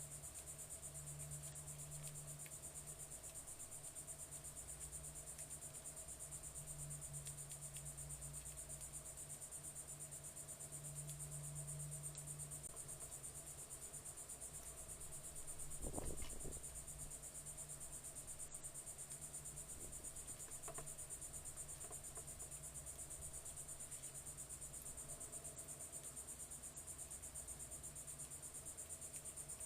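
Steady, high-pitched chorus of insects trilling without a break, over a faint low hum. About halfway through there is one brief low thump.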